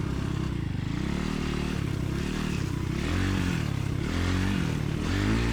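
Motorcycle engine running under a rider, its revs rising and falling several times as the throttle is opened and closed.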